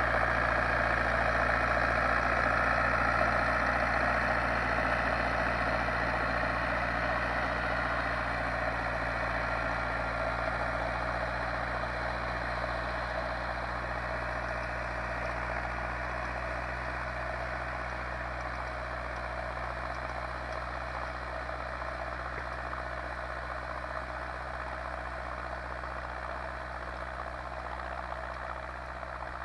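Zetor 7245 tractor's four-cylinder diesel engine running steadily, slowly getting quieter over the stretch.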